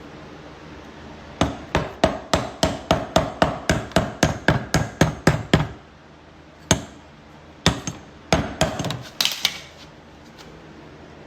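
Quick run of hammer blows on an old hatch gas strut, about four a second, then a few more scattered knocks.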